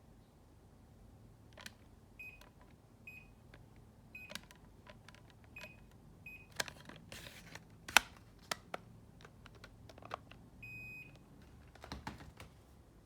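Buttons on a Daikin air conditioner remote control clicking as they are pressed, answered by short high beeps: five short beeps in the first half and a longer beep near the end.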